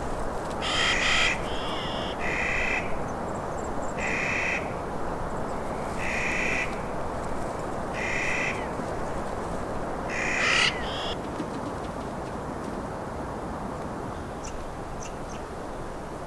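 A bird calling: a short call repeated about every two seconds, about eight times, then it stops about eleven seconds in. A steady background hiss runs underneath.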